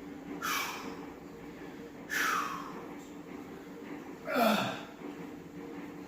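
A man's forceful breaths under a heavy close-grip bench press, three sharp, hissing breaths about two seconds apart, one per rep.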